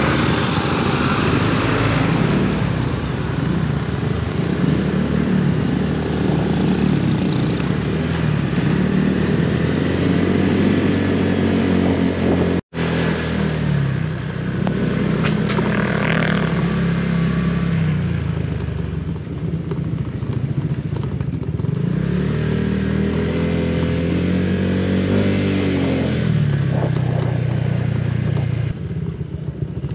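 Honda PCX 160 scooter's single-cylinder engine running under way, its pitch rising and falling several times as the throttle opens and closes, over road noise.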